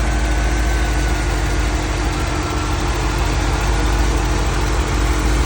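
Fuel-injected Cross-Fire engine idling steadily.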